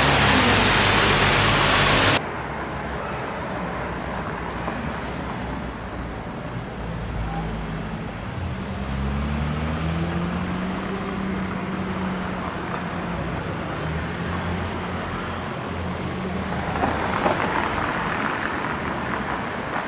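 Street traffic with car engines running: a loud rushing noise cuts off abruptly about two seconds in, then an engine hum rises in pitch as a car accelerates, and another vehicle passes louder near the end.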